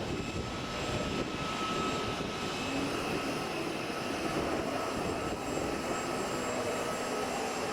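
Radio-controlled model hovercraft running, its motor and propeller giving a steady high whine over a rush of air.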